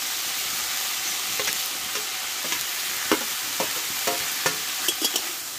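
Potato, aubergine, drumstick flowers and peas sizzling in hot oil in a metal kadai while a spatula stirs them, scraping and knocking against the pan. The knocks come more often in the second half.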